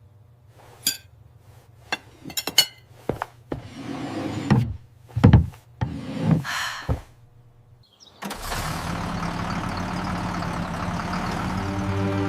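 A scattering of knocks, clicks and thuds, with a brief whoosh about six and a half seconds in. From about eight seconds a steady rushing noise starts, and music comes in near the end.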